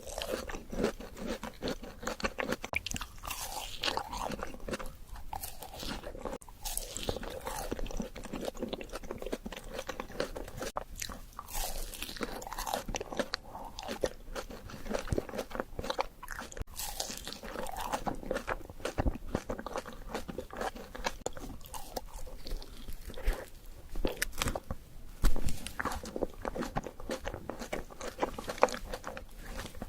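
A person biting and chewing an Oreo chocolate dessert, a steady irregular stream of crisp crunches and mouth clicks.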